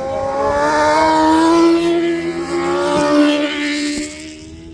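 Racing motorcycle engines at high revs passing by. The note swells to a loud peak, holds, and fades away near the end.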